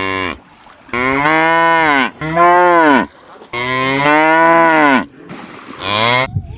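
Buffalo bellowing: a long moo-like call dies away about half a second in, then come three long bellows, each rising and then falling in pitch, and a shorter, fainter one near the end.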